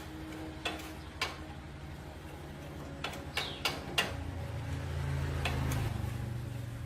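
A small engine running steadily at low speed, growing louder about four seconds in, with a handful of sharp clicks and taps over it.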